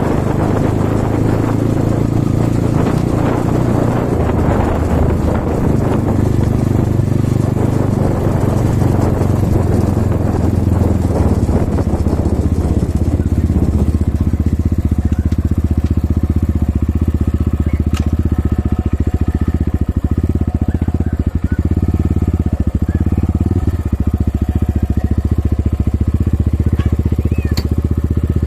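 Kovi Advance 300 enduro motorcycle engine running while being ridden, with wind noise over it at first. About thirteen seconds in, the sound settles into a steadier, lower engine note. The engine is being warmed up before an oil change.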